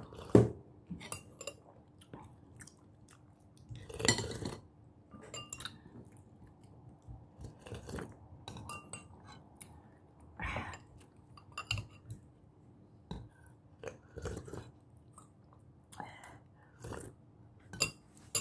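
Close-miked chewing of food, with irregular short clicks and a few clinks of a metal spoon against a glass bowl and a ceramic plate.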